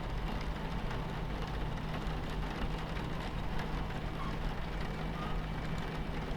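Train interior ambience: a steady low rumble of a train running on the tracks, with rain pattering against the window.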